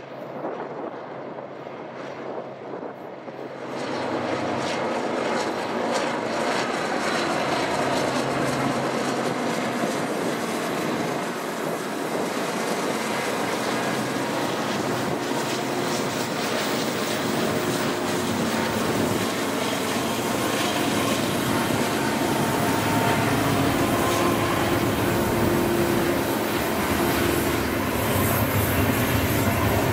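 Freight train passing at speed: the steady rumble and rattle of its wheels on the rails, which comes up sharply about four seconds in and then holds.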